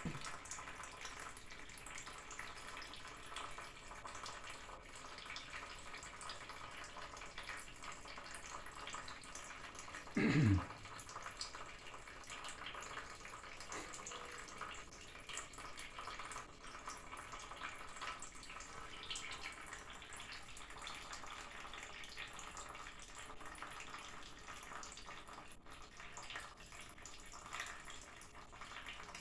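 Condensate water trickling and dripping out of a hole drilled in a gas furnace's flue pipe. The water had pooled in the pipe because it slopes back away from the furnace. About ten seconds in there is a brief, louder sound falling in pitch.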